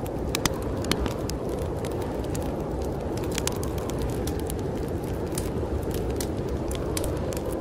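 Wood fire crackling in a fireplace, with irregular sharp pops and snaps, over a steady low rush of snowstorm wind.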